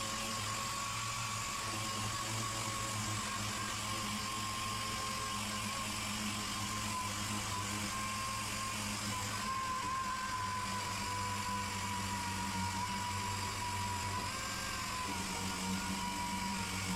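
Electric power tool running steadily with a high whine that dips slightly now and then under load, cleaning back the paint and filler on a car's rear wheel arch.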